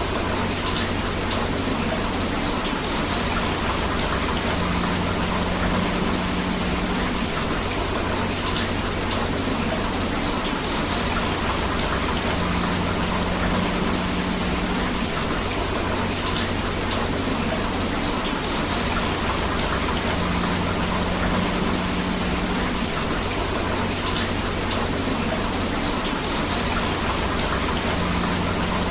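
Steady rain and rushing river water, an even hiss with a faint low tone that comes and goes about every eight seconds.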